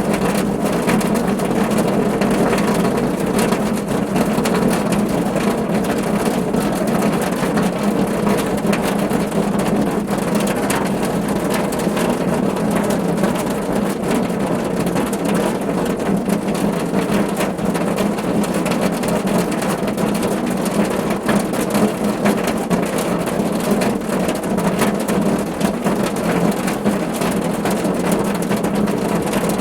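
Steady rain falling on a car roof: a dense, even patter of drops with no letup.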